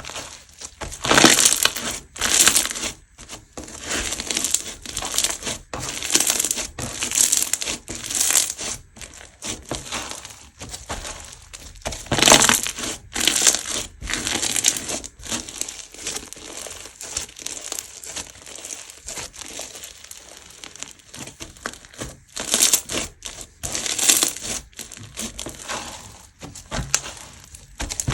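Crunchy slime being squeezed and pressed by hand, giving irregular bursts of crisp crackling.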